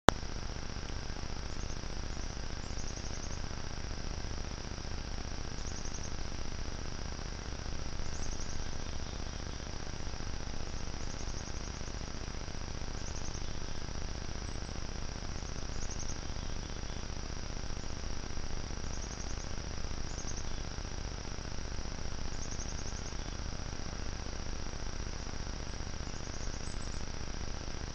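Short, high trilled chirps of a few quick pulses each, repeating every two to three seconds, over a steady hiss.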